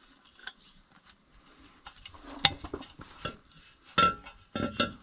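Small metal parts and hand tools clinking and scraping as they are handled, with a few sharp metal clinks, the loudest about four seconds in.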